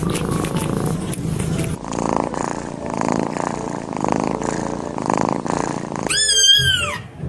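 Cat purring steadily, the sound changing with a cut about two seconds in; near the end a kitten gives one loud meow that falls in pitch.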